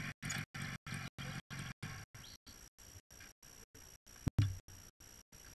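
Motorcycle engine running close by, then fading after about two seconds as the bike moves off, with the sound cutting out about four to five times a second throughout. A sharp knock about four seconds in is the loudest sound.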